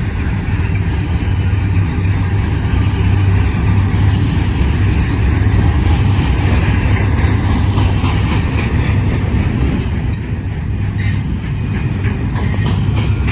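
Intermodal stack container train cars rolling past at close range: a steady, loud rumble of steel wheels on rail, with a run of repeated clicks as the wheels cross rail joints and a sharper click about eleven seconds in.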